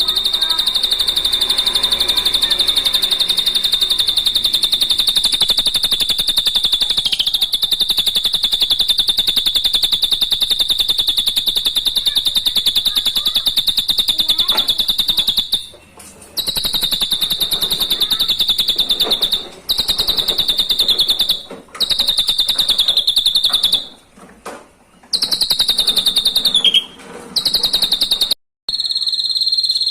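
A high, rapidly pulsed trill held on one pitch, with several short breaks in the second half.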